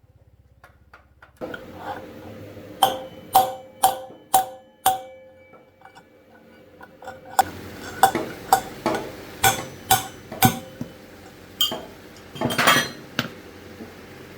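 Metal being struck again and again, about two sharp ringing blows a second in two runs with a pause between, over a steady low hum.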